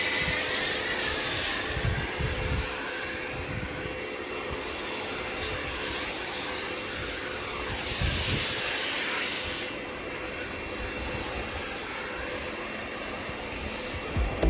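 Pressure washer spraying water: a steady hiss of the jet with the machine's motor humming at one constant pitch underneath.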